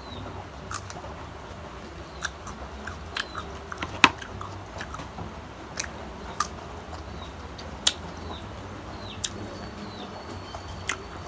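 Crisp crunching and chewing of unripe green mango, a sharp crunch every second or so, the loudest about four seconds in. Faint bird chirps behind.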